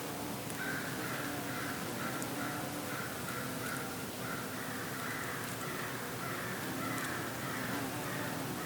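Crows cawing in a long run of short, repeated calls, a few a second, over a steady hiss of breeze.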